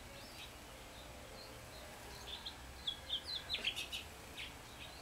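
Small wild songbirds chirping: a quick run of short, high chirps about two to four seconds in, over a steady low background hum.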